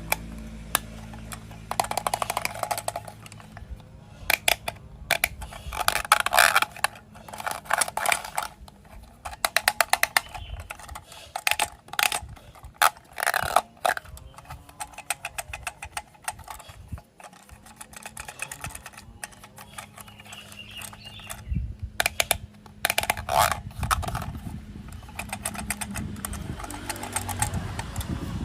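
Plastic toy train parts being handled and fitted together: irregular bursts of clicking and rattling, with pauses between.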